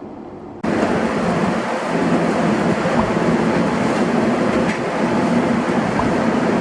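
Train running steadily, its noise cutting in abruptly about half a second in, over a quieter ambience.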